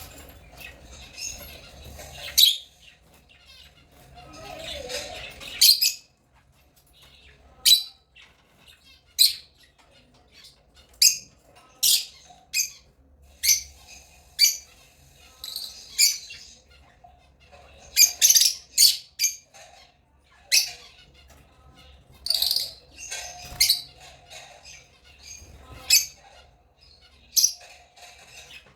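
African lovebirds chirping: a run of short, sharp, high-pitched calls about once a second, with softer chatter between them.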